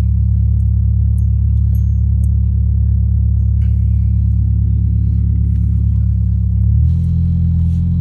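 Car engine running at low speed, a loud steady low rumble that drops in pitch about seven seconds in.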